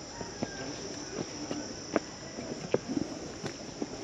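Steady high-pitched drone of an insect chorus, with a few scattered sharp clicks.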